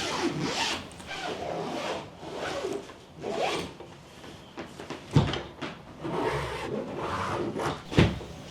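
Handling sounds: a series of short rubbing and scraping sweeps, with two sharp knocks, one about five seconds in and one near the end.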